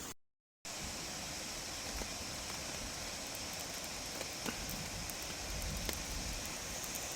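Steady rain falling outdoors, a continuous even hiss with scattered faint drop ticks, after a brief dropout of all sound right at the start.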